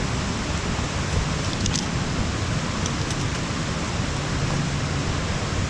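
Waterfall's water rushing steadily, with a few faint ticks about a second and a half in.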